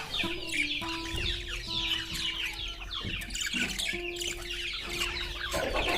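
A flock of Australian parrots chattering and chirping all at once in a dense, continuous twitter, over background music with long held notes.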